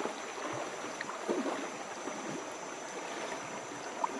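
Shallow, rocky mountain river running: a steady rush of water, with a short sharp click near the end.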